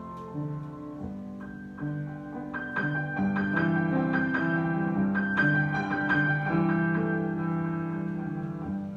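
Solo piano improvisation: sustained chords under a melody, swelling louder about two and a half seconds in and easing back near the end.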